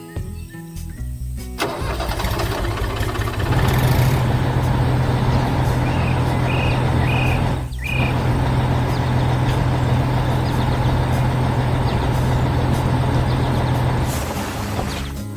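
Heavy construction-vehicle engine sound effect: it cranks up about a second and a half in, then runs steadily with a low hum and cuts out near the end. Three short high beeps come about halfway through, with music underneath.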